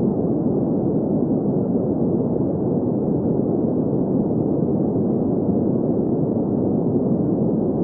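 Green noise: a steady, unchanging hiss centred in the middle-low range, with nothing above the low treble. It is a synthetic sleep sound.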